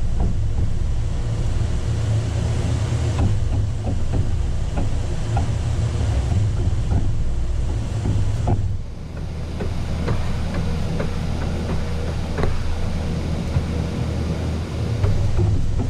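A steady low mechanical hum, like a running motor, with light scattered clicks and scrapes over it. The hum dips and shifts slightly about nine seconds in.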